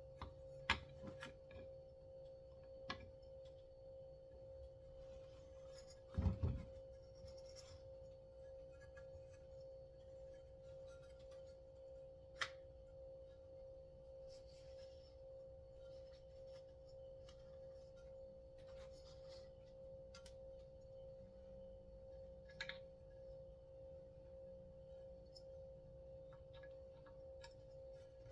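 Occasional clicks and knocks of small parts being handled while a chainsaw's recoil pull starter is reassembled, the loudest about six seconds in. A steady hum sounds underneath.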